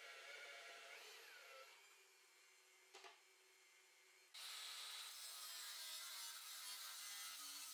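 A steady rasping scrape of wood being worked, starting suddenly about four seconds in. Before it there are only faint workshop sounds and a single click about three seconds in.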